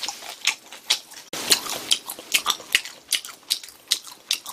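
A person chewing grilled pork with the mouth open: wet, smacking clicks about two or three a second.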